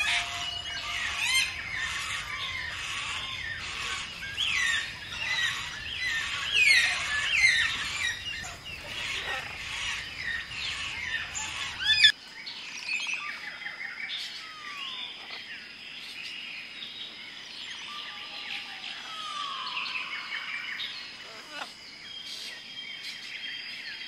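Wild birds calling at once: a dense chorus of short chirps and whistles that thins out about halfway through, after which scattered, quieter calls go on over a steady high tone.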